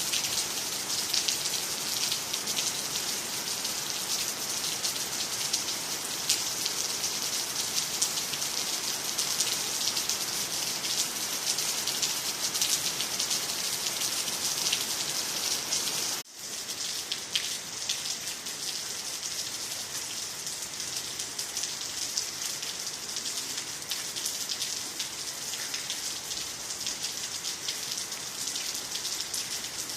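Steady rain falling on the ground, nearby trees and water, a dense hiss dotted with the patter of individual drops. About halfway through it cuts out for an instant and comes back a little softer.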